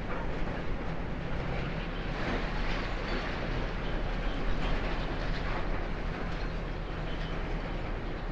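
Demolition excavator's diesel engine running steadily, with scattered crunching and clatter of concrete floor being broken up.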